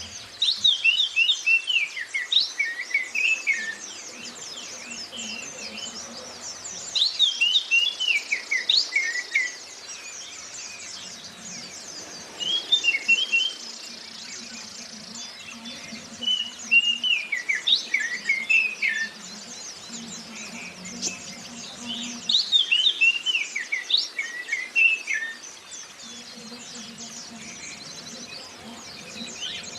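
Songbird recording of oriental magpie-robin and white-eye song. Loud phrases of quick downward-sliding notes come every few seconds and last a second or three each, over constant high twittering.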